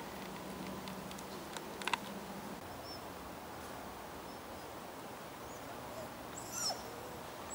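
Quiet woodland ambience with a few brief, high bird chirps, the loudest near the end. A short, sharp tonal click sounds about two seconds in.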